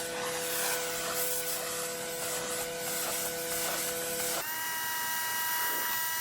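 Pressure washer running and spraying: a steady machine whine over a hiss of spray. About four and a half seconds in, the whine jumps suddenly to a higher pitch.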